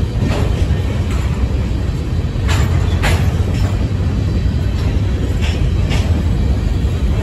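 Freight train's covered hopper cars rolling past at close range: a steady low rumble of wheels on rail, with several sharp clacks from the wheels scattered through it.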